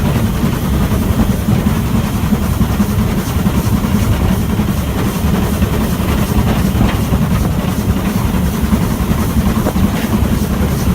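Train running along the track: a steady low rumble that does not rise or fall.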